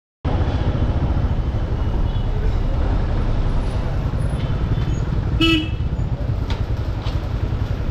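Road traffic: a steady low rumble of moving vehicles that starts abruptly, with a short vehicle horn honk about five and a half seconds in.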